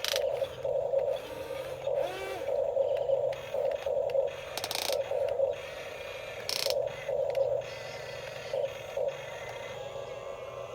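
Small electric motors and plastic gearboxes of radio-controlled construction models whirring in many short bursts, with a few sharp clicks.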